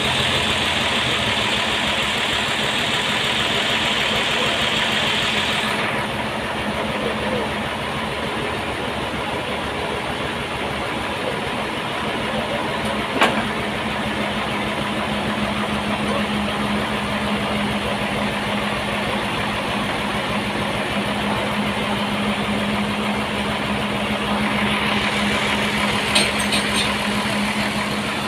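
A home-built sawmill runs steadily, its engine humming without letup. A brighter hiss lies over it for the first six seconds and again near the end, and there is a single sharp knock about halfway through.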